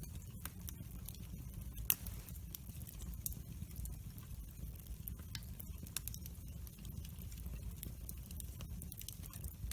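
Wood fire burning in a fireplace, with frequent small crackles and pops over a low steady rumble of the flames; one sharper crack about two seconds in.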